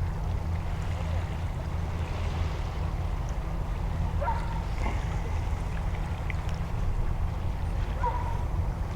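Steady low rumble of wind and water along the shoreline. A couple of faint, short bird calls come about four and eight seconds in.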